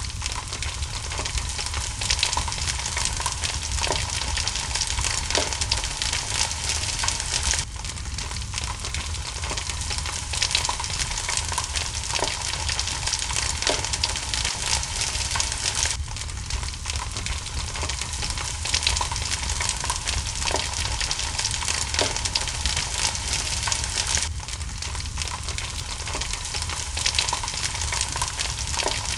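Wood fire crackling steadily with frequent sharp pops, over a dense hiss of rain. The track is a short loop that restarts with an abrupt join about every eight seconds.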